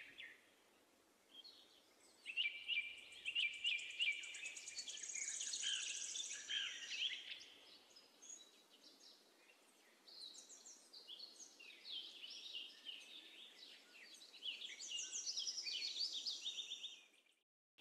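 Small birds chirping and twittering, with fast high trills. They come in two stretches, separated by a short lull around the middle, and sound faint.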